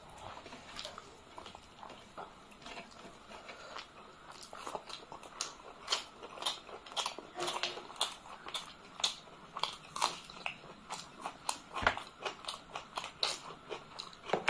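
Close-miked chewing and wet lip-smacking of people eating rice and chicken gravy by hand. The smacks are sparse and quiet at first, then come several a second and louder from about four seconds in, with one sharper knock near the end.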